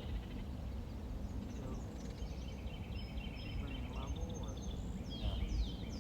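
Small birds chirping and twittering, with a run of quick falling chirps near the end, over a steady low rumble.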